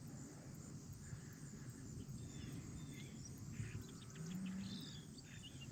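Faint outdoor ambience with a low rumble and a few scattered, faint bird chirps.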